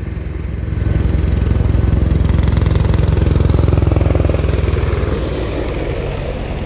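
Helicopter flying low overhead, its rotor beating with a fast, even pulse. It grows louder about a second in and fades over the last couple of seconds as it passes.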